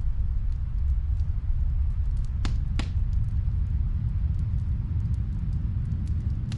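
Snowstorm wind making a steady low rumble, with faint scattered crackles of a wood fire and two sharper pops from the fire about two and a half seconds in.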